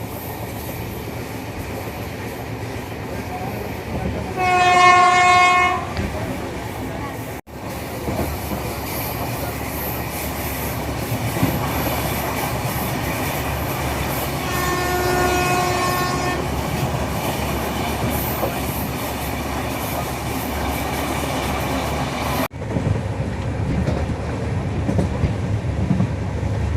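Steady running noise of a moving passenger train on the rails, with a loud train horn blast about four seconds in lasting a second and a half, and a second, fainter horn blast near the middle.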